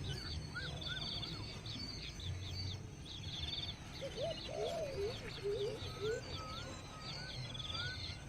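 Several birds chirping and calling at once: rapid high chirps and short trills throughout, a series of short whistled upslurs around six to eight seconds in, and a burst of lower swooping calls about four seconds in, over a steady low background rumble.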